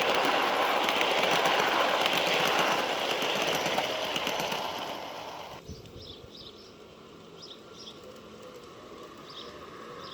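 Spur 1 garden-railway model of an M62 diesel locomotive running on its track: a noisy mechanical clatter full of quick clicks that starts to fade. A bit over halfway it cuts off abruptly to quiet outdoor ambience with birds chirping.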